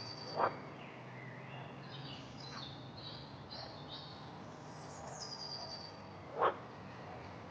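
Forest birds singing: a high whistled phrase that falls in pitch, heard twice, with shorter chirps between. Two brief sharp sounds, about half a second in and again near the end, are the loudest things heard. A faint steady low hum runs underneath.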